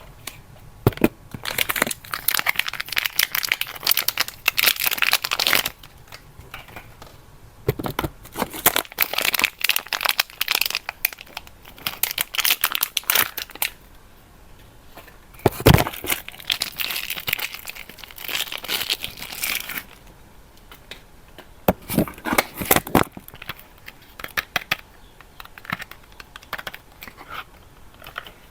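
Soap wrapper being crinkled and torn open by hand, in several spells of a few seconds each with short pauses between, ending in a few light rustles and clicks.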